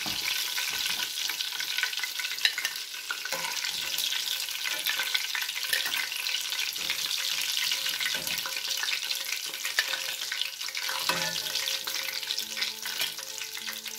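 Battered chicken frying in hot oil in a cast-iron pan: a steady crackling sizzle, with scattered clicks of a spoon against the pan as the pieces are turned and lifted out. Music fades in near the end.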